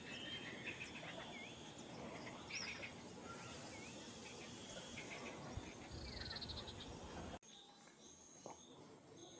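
Small birds chirping with short, repeated check-shaped notes and a buzzy trill over a steady outdoor hum of insects. About seven seconds in, the sound cuts abruptly to a quieter background with a thin, high chirp repeated at an even pace.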